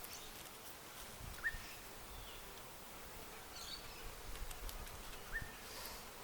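Faint hum of honeybees around an opened hive, with a small bird chirping briefly twice, about four seconds apart.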